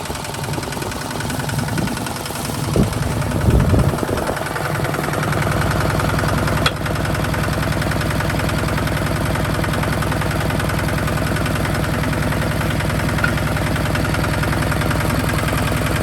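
Hinota HG Gold 155 DI tractor's diesel engine running with a rapid, even knocking beat, settling into a steady note about five seconds in. There is a single sharp click a couple of seconds after that.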